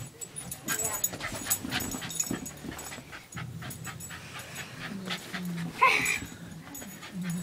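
A dog panting, with scratchy clicks throughout and one brief louder sound about six seconds in.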